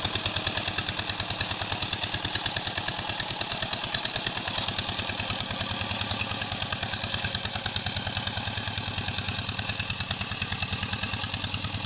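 Walking tractor's single-cylinder engine running at a steady idle after its service, with an even chugging beat of about seven or eight firings a second.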